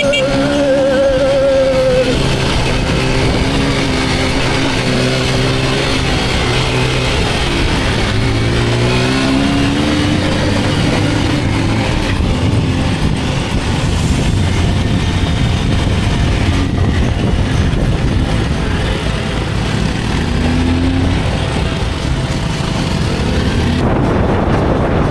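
Honda CRF300 dirt bike engines running, the pitch rising and falling several times as the bikes rev and change speed.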